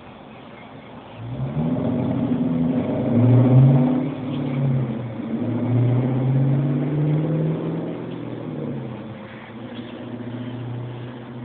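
An engine running and changing speed, coming in about a second in, loudest around three to four seconds, its pitch wavering up and down, then fading toward the end.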